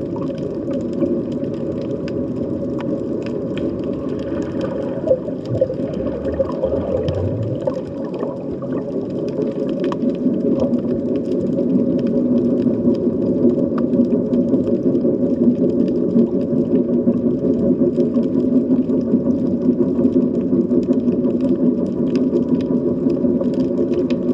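Underwater sea ambience: a steady low drone with several held tones that grows louder about halfway through, with scattered faint clicks.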